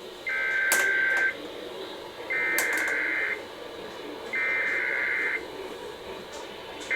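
Three bursts of Emergency Alert System SAME digital header data from NOAA Weather Radio, a raspy two-tone data warble, each about a second long and about a second apart, over faint radio hiss. A brief blip of the same data sound comes at the very end.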